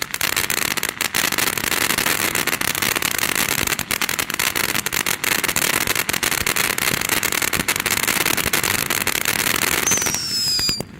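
Ground fountain firework spraying with dense crackling, many sharp pops over a steady hiss, that cuts off abruptly about ten seconds in. A short falling whistle follows just after.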